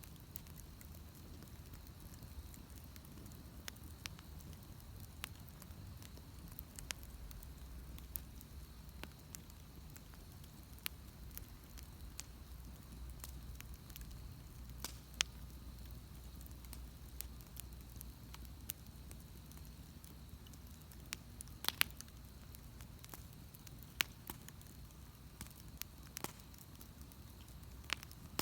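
Wood bonfire crackling, with irregular sharp pops and snaps over a low steady rumble of the burning fire.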